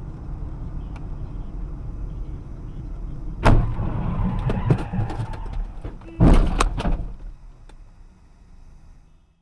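Car road rumble, then two loud crashes about three seconds apart, each followed by rattling clatter, as in a vehicle collision.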